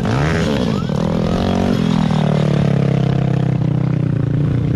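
Dirt bike engine running under the rider's throttle: its pitch dips and climbs in the first couple of seconds, then holds fairly steady.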